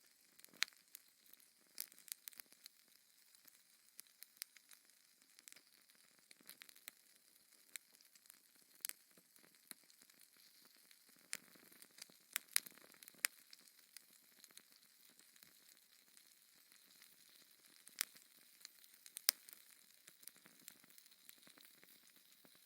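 Wood fire crackling in a fireplace: a soft hiss broken by irregular sharp pops and snaps, a few much louder than the rest.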